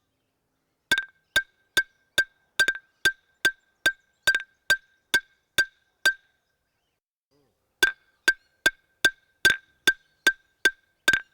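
Wooden clapsticks struck together in a steady beat of about two strikes a second, each a sharp knock with a short ringing tone. The beat stops for a moment after about six seconds and then starts again.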